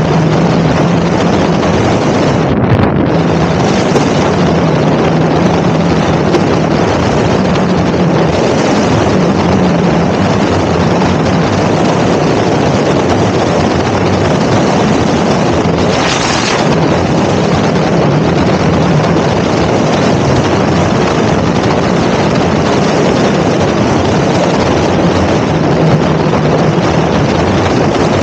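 Heavy wind rushing over the microphone of an electric motorbike riding at speed: a loud, steady roar with a faint low hum that comes and goes.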